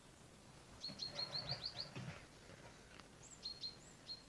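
A small songbird singing: a quick run of six or seven high chirps about a second in, then a few more high notes near the end.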